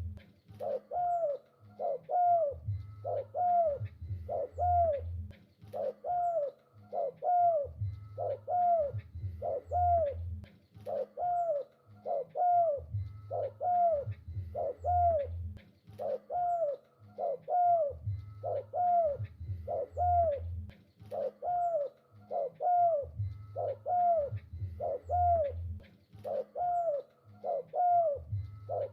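Spotted dove (tekukur) cooing over and over without pause, each coo a short falling note repeated in a steady run of phrases.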